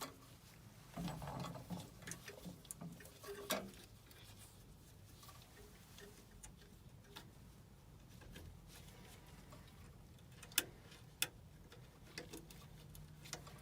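Scattered light clicks, taps and small knocks of metal furnace parts and hand tools being handled, with two sharp clicks a little over ten seconds in.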